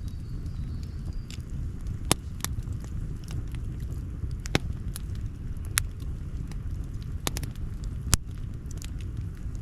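Campfire burning, with sharp pops and crackles of the wood every second or two over a steady low rumble.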